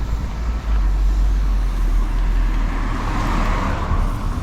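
Road traffic: a steady low vehicle rumble, with a vehicle swelling past about three seconds in.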